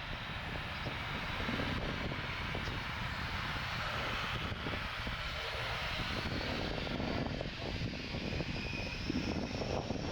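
Jet airliner's engines running, a steady noise with a faint high whine that rises slowly through the second half.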